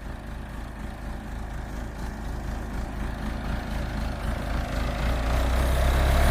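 Backhoe's diesel engine running, growing steadily louder and louder still near the end as it is worked harder.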